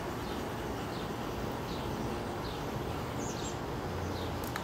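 A small bird calling in short, high, falling chirps, about one every half second, over a steady outdoor hiss.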